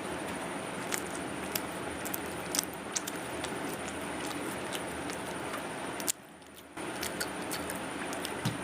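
A person chewing vada pav: scattered soft crunches and mouth clicks over a steady background hiss. The sound drops out briefly about six seconds in.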